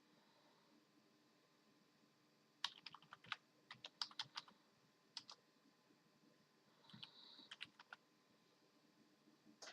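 Keys tapped on a computer keyboard in short, irregular runs of clicks, starting about two and a half seconds in, with a few more near the end.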